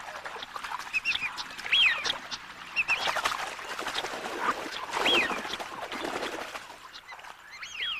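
Northern shoveler ducks calling during courtship: a scattered series of short, high calls, some in quick runs of three, and a few louder gliding ones.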